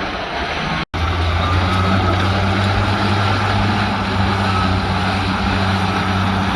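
Heavy earthmoving machine's diesel engine running steadily under load, a low constant drone. The sound cuts out for an instant about a second in, then carries on unchanged.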